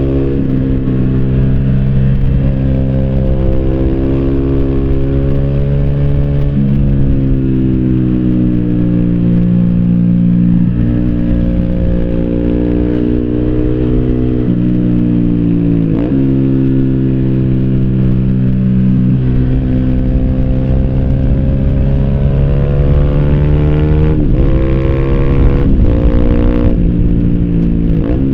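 Yamaha YZF-R125's single-cylinder four-stroke engine through an Arrow slip-on exhaust, under way. The revs climb steadily and then drop sharply at each gear change, half a dozen times, heard from a phone in the rider's backpack.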